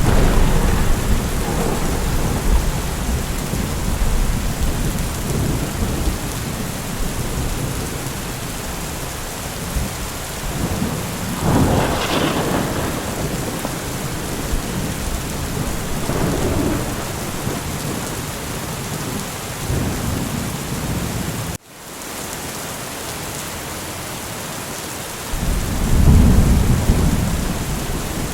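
Steady heavy rain with rolling thunder rumbling underneath, swelling several times. About two-thirds of the way in, the sound cuts out for an instant and comes back quieter before a heavier rumble of thunder builds near the end.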